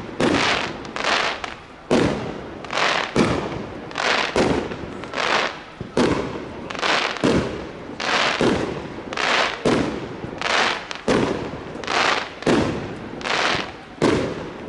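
Fireworks display: aerial shells bursting in quick succession, a sharp bang every half-second to second, each trailing off briefly.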